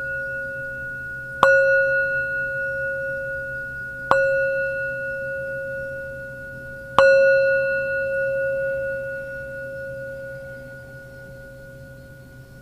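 A struck metal sound-healing instrument ringing with a clear tone. It is struck three times, about a second and a half in, at about four seconds, and at about seven seconds, and each strike is left to ring on. The last strike fades slowly away.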